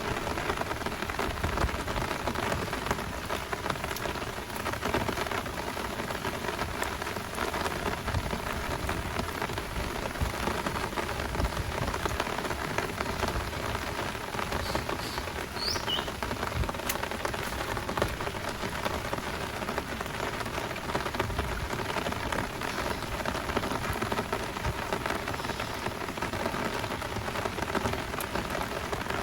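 Heavy downpour: a steady, dense hiss of rain with countless close drop hits. A brief, faint high chirp rises just past the middle.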